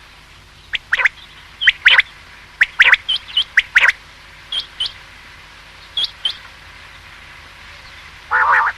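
Common quail calling: short, sharp, clipped notes in quick groups of two or three, repeated through the stretch. Near the end comes one longer, harsher rasping burst.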